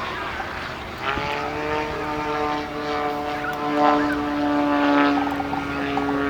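Propeller-driven 550cc engine of a large-scale Yak 54 model aircraft droning in flight. Its note comes up strongly about a second in and then holds steady.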